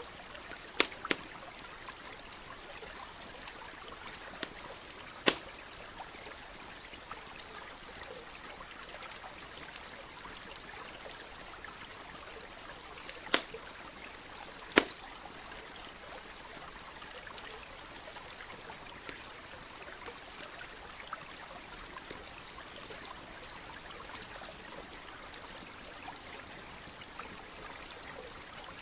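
Campfire crackling with scattered sharp pops over the steady murmur of a nearby stream. The loudest pops come about a second in, at about five seconds, and twice near the middle.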